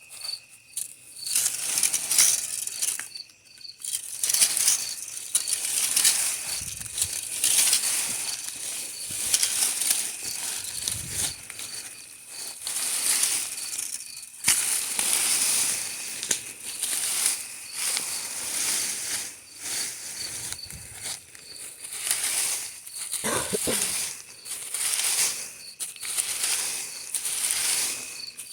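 Irregular scraping, rustling and crunching of hand yard work in soil and stones, stroke after stroke, over a steady chirping of crickets.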